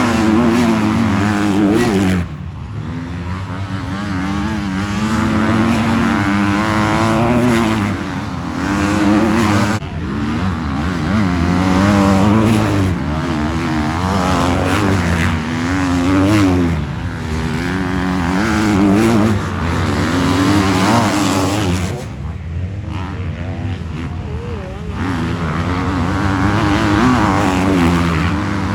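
Several motocross dirt bikes racing, their engines revving up and down again and again. The sound swells and fades every few seconds as bikes pass.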